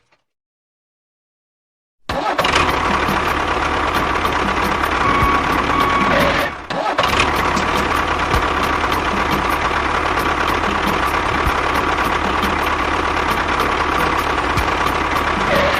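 A small motor starts about two seconds in and runs steadily with a constant whine and a fine regular ticking. It drops out briefly near the middle.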